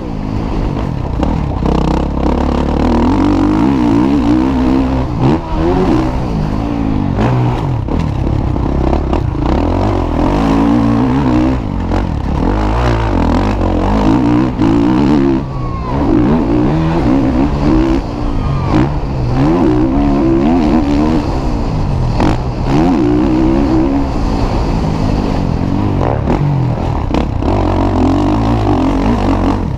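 Motocross bike engines revving hard as they race, their pitch climbing and dropping again and again with throttle and gear changes.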